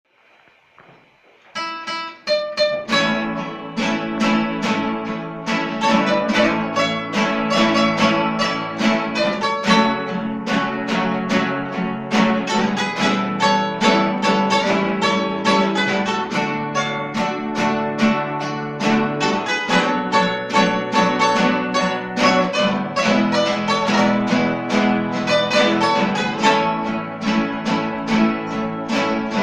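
Men's rondalla guitar ensemble playing an instrumental introduction: rapid plucked notes over strummed chords in a steady rhythm, starting about a second and a half in.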